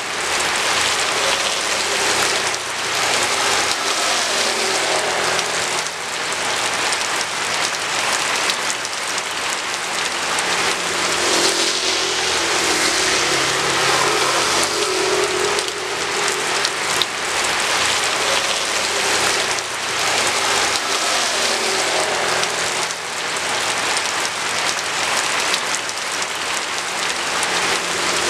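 Steady rain falling and splashing on the ground, loud and even throughout, with the low hum of road vehicles passing at times, most noticeable around the middle.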